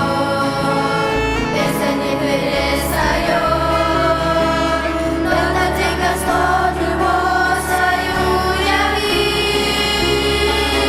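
Choir singing a Russian-language hymn over instrumental accompaniment, with held chords and sustained bass notes.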